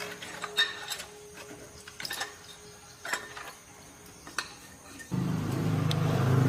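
Scattered clicks and taps of hand work on metal parts. About five seconds in, a motor starts suddenly and runs loudly with a steady low hum.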